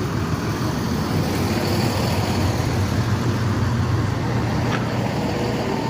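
Class 170 Turbostar diesel multiple unit standing at the platform with its engine idling: a steady low hum.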